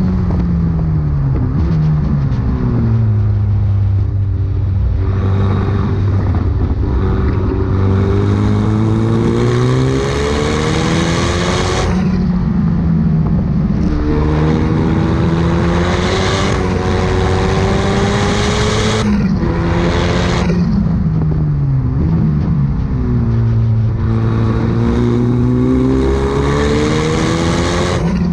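Supercar engine and exhaust under hard acceleration: the note climbs steadily for several seconds, then drops sharply at each gear change, four or five times over.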